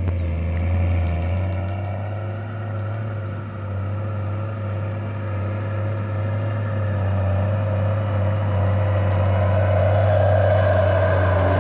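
An engine running steadily: a low, even drone with a faint wavering tone above it.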